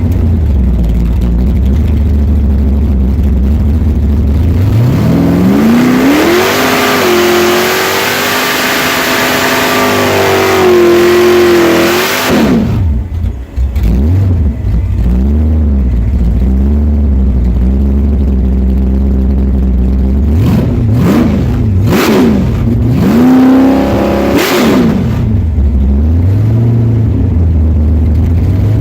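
Supercharged 540 cubic-inch big-block Chevy V8 with an 8-71 BDS blower, heard from inside the car. It idles with a lumpy rumble, revs up about five seconds in and holds high for several seconds, then drops off suddenly. It then gives a series of short throttle blips and settles back to idle.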